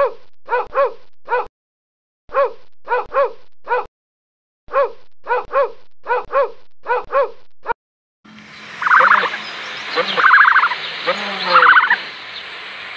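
A small dog barks in quick bursts of four or five sharp barks, with brief silent gaps between them, for about eight seconds. After that, an outdoor recording with steady background hiss takes over, broken by a few short rasping sounds.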